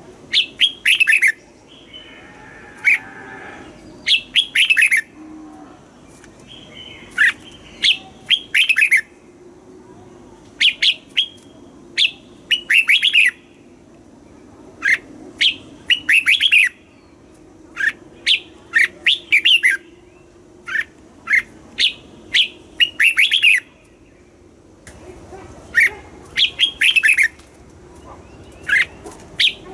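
Red-whiskered bulbul singing: short phrases of quick, clear notes, repeated every second or two with brief pauses between them.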